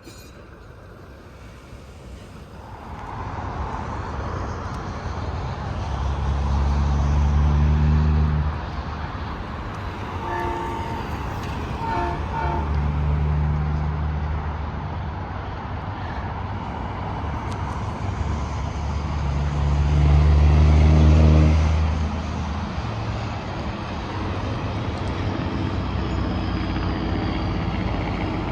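Tractor-trailers passing on a highway, their engines droning loudest about seven seconds in and again around twenty seconds. Between them, a horn sounds several short toots.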